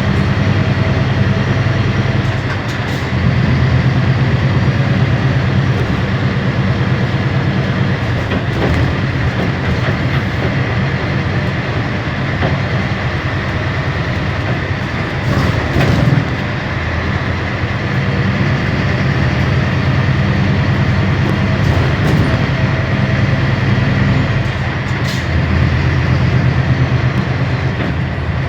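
Scania K320 hybrid bus under way, a steady low engine and road drone that swells and eases a little as it drives, with a thin, steady high whine over it.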